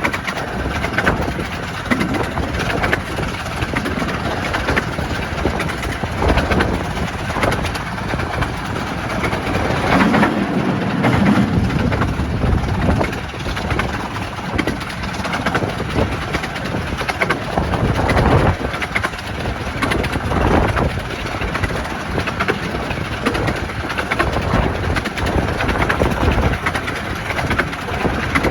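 Train on the 15-inch gauge Romney, Hythe & Dymchurch Railway running along the track: a continuous rumble with a busy rattle of wheels on rails.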